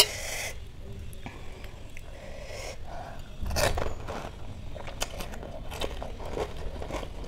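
Crisp pani puri shells crunched and chewed close to the microphone: crackly bites and wet chewing, loudest a little past the halfway point. A sharp crack sounds right at the start.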